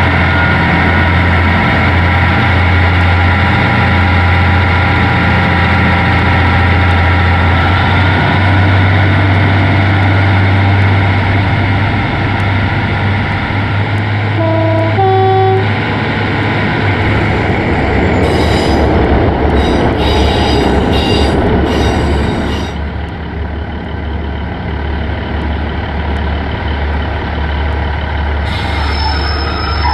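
Passenger train running, heard from inside the carriage: a steady rumble of wheels and running gear over a low drone. About halfway through there is a brief tone of a few notes. The running noise drops in the last several seconds as the train slows for the next station.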